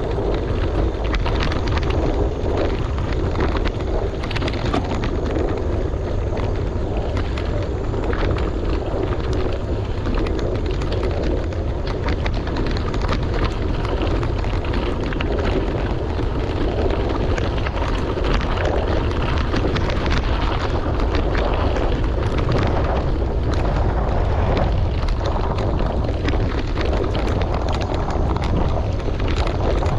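Wind buffeting the microphone on a moving bicycle, with tyres crunching and rattling steadily over a gravel road.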